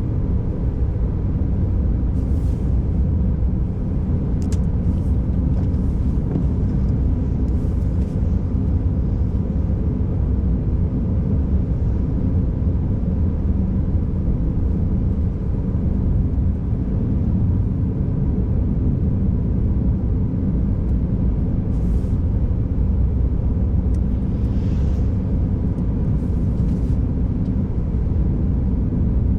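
Car driving on a snowy, icy road: a steady low rumble of engine and tyre noise, with a few faint light ticks here and there.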